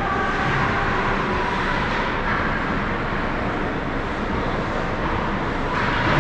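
Steady din of an ice hockey rink during a game, with faint distant voices in it.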